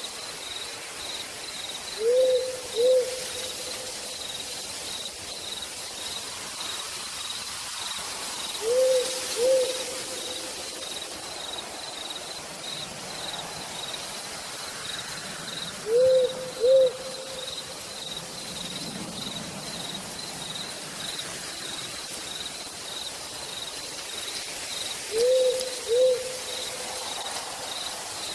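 Steady hiss of rain with a cricket chirping in a constant pulse, while an owl gives pairs of short hoots four times, about every seven seconds.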